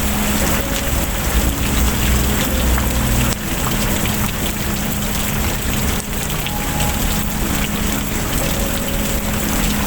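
Steady rain falling, an even hiss with scattered drop ticks, over a low steady hum.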